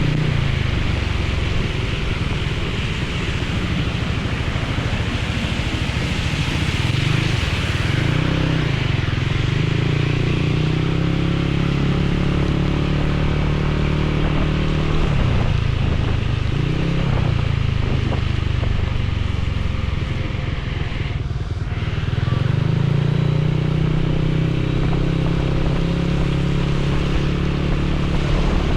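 Motorcycle engine running under way, its pitch rising and falling several times with the throttle and gear changes, over a steady hiss of wind and rain.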